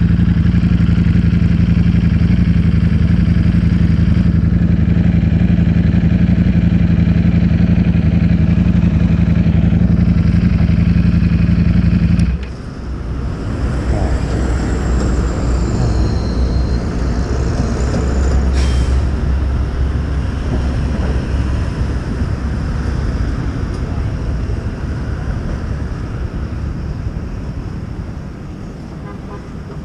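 Ducati Streetfighter V4S V4 engine through an Akrapovič full-system exhaust, running at a steady note with an even drone. The drone cuts off abruptly about twelve seconds in, leaving a rougher rushing rumble and hiss.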